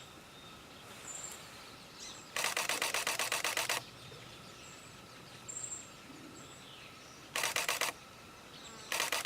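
Camera shutter firing in rapid continuous bursts: one long burst of about a second and a half, then two short bursts near the end. Faint high bird chirps come in between.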